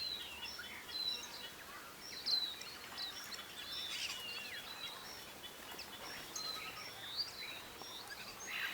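Several birds chirping and whistling, short calls one after another, some gliding down in pitch, over a steady hiss of outdoor noise.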